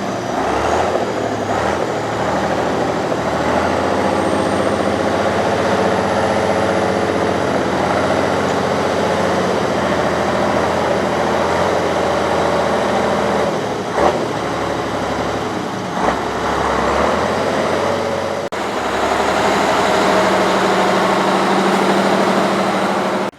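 Heavy off-road trial truck's engine running under load, its pitch shifting as it works, with a couple of sharp knocks over the last third.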